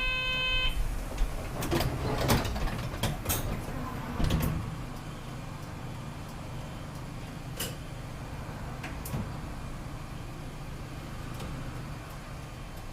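Inside a city bus at a stop: a short electronic door chime, then the doors closing with a series of clunks and clicks over the next few seconds, after which the bus's engine runs with a steady low hum as it pulls away.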